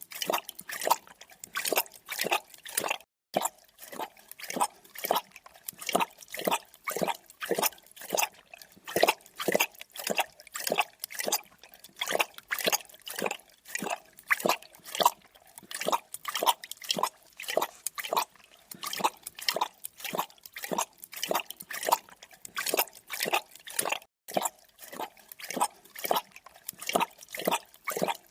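A creature drinking: wet lapping strokes, about two to three a second, kept up steadily with a couple of brief breaks.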